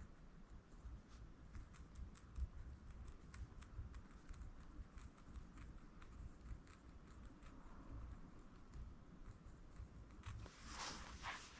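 Faint scratching and small taps of writing on book pages, with a louder papery rustle near the end.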